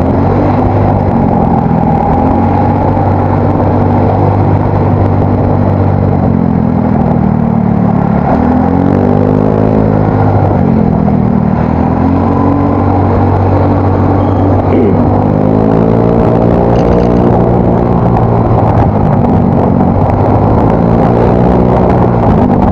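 Yamaha Mio Soul GT scooter's single-cylinder engine running through an aftermarket exhaust while riding, its pitch swelling and dropping back several times as the throttle is opened and eased off, most clearly about a third of the way in and again past the middle.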